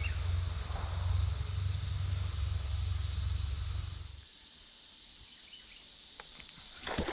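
Steady chorus of insects buzzing in the background, with a low rumble underneath that stops abruptly about four seconds in.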